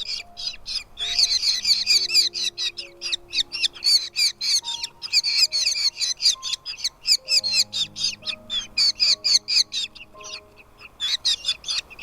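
Nestling birds begging for food in the nest: rapid, repeated high chirps, several a second, with a short lull near the end. Soft background music with long held low notes plays underneath.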